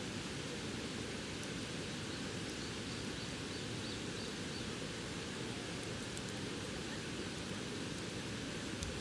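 Steady rushing of a river's flowing water, with a few faint crackles from a campfire.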